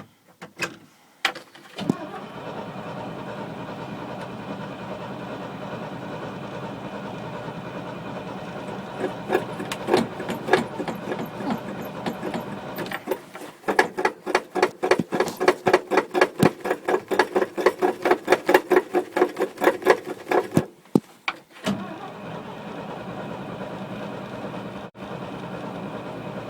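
An engine that has sat for a year on old gas catches about two seconds in and runs steadily. Near the middle it runs with loud, rapid, uneven pulses for several seconds, cuts out briefly, and picks up running steadily again.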